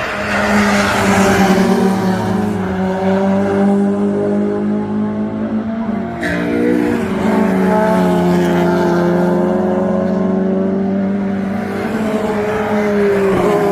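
Several hot hatch race cars' engines running hard at high revs as they pass and pull away along the circuit, with tyre noise. A single sharp crack about six seconds in.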